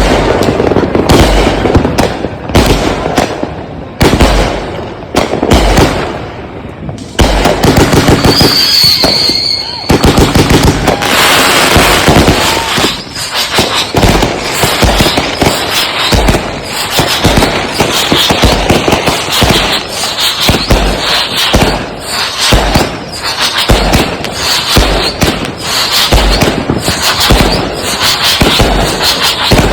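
Consumer firework cakes firing in rapid succession, with launch thumps and aerial bursts cracking several times a second. A short high whistle sounds about eight seconds in.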